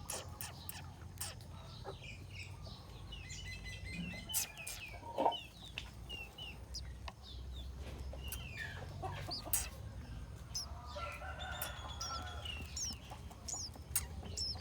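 Birds calling: many short, high chirps scattered throughout, with a run of lower clucking calls about eleven seconds in.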